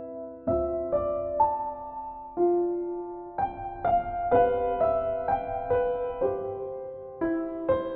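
Slow, gentle solo piano music: single notes and soft chords struck one or two a second, each left to ring and fade.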